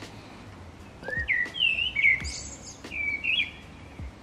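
A songbird singing a short warbling phrase of rising and falling chirps, with a few faint clicks and knocks of parts being handled.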